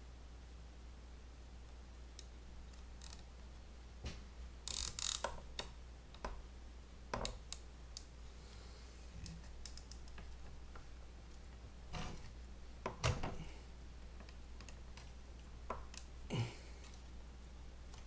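Nylon zip tie being pulled tight through its ratchet head in several short rasping pulls, with small plastic clicks of handling between them; the loudest pull comes about five seconds in.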